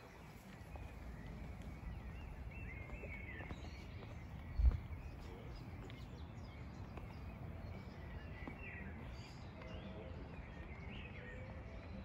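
Birds chirping now and then over a steady low outdoor rumble, with a single low thump about halfway through.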